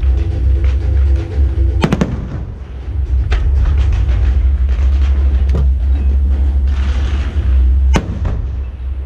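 Aerial fireworks exploding: several sharp bangs, about 2, 3.5, 5.5 and 8 seconds in, over a continuous low rumble, with a short hiss about 7 seconds in. Show music plays alongside.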